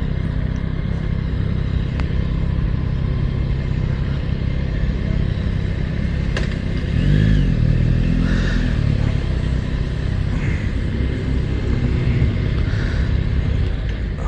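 Motorcycle engine running at low speed with a steady low rumble. Its pitch rises and falls briefly about seven seconds in.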